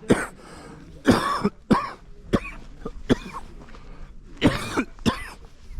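A person coughing repeatedly, about seven short harsh coughs in a string, some with a little voice in them.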